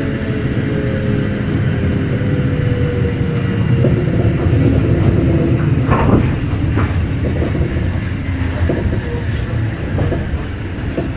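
Running sound inside a Kintetsu 2610 series motor car as the train slows for a station stop: a steady rumble with wheel clatter and a motor tone falling in pitch, and a couple of sharp knocks about six seconds in.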